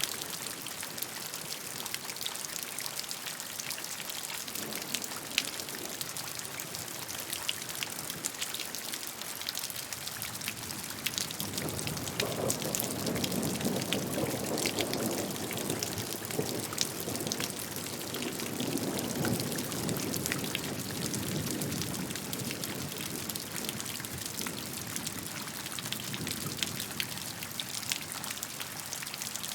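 Steady rainfall, with many separate drops striking over an even hiss. A deeper rush of water swells up about twelve seconds in and eases off after about ten seconds.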